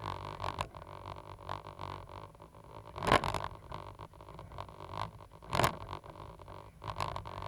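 Cat 320GC excavator running with a steady engine drone, broken by scattered short scrapes and two loud, brief noises, a little after three seconds in and again about two seconds later.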